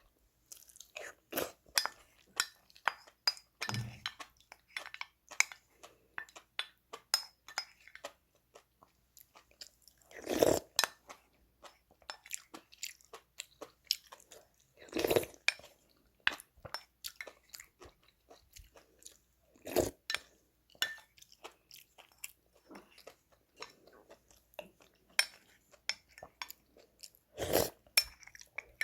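A person eating close to the microphone: crisp, irregular crunching and chewing, with a few louder bites or knocks spaced several seconds apart.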